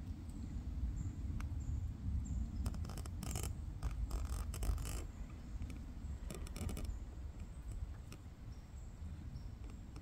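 Faint, very high, short bird calls in the first couple of seconds, over a low rumble. Three bursts of rapid scratchy clicks come in the middle, and these are the loudest sounds.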